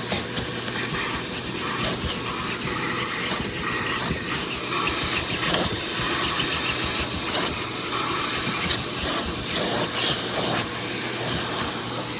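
Bissell CleanView Compact upright vacuum (model 3508) running steadily, with a constant high-pitched whine over the motor's hum. Short clicks and knocks come through every second or so as it works.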